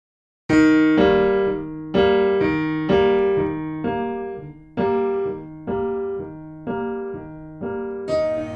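Intro music: a piano playing a slow run of struck chords, about one a second, each ringing and fading before the next.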